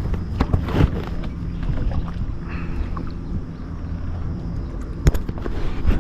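Knocks and bumps from handling aboard a plastic pedal kayak over a steady low hum: two sharp knocks in the first second and another near the end.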